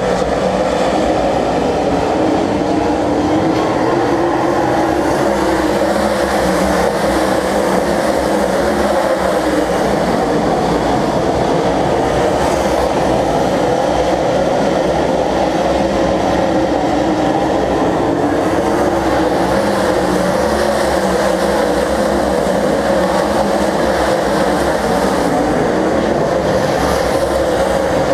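Stock car racing engines running at race speed, a loud, steady drone that never lets up.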